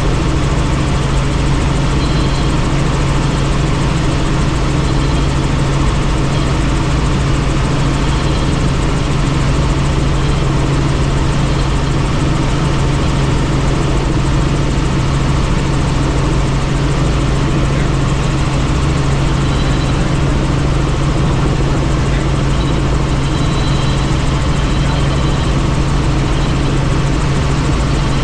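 Helicopter in flight, heard from inside the cabin with the doors off: a loud, steady drone of rotor and engine with a strong low hum under a broad rush of noise.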